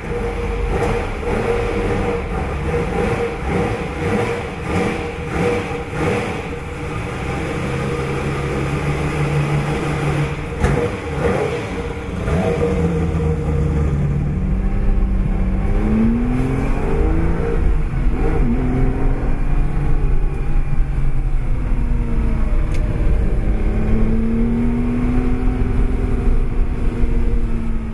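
The V12 engine of a 1959 Ferrari 250 GT Pininfarina Coupé running, revving unevenly for the first few seconds. It then rises in pitch several times as the car pulls away through the gears, and holds a steady note near the end.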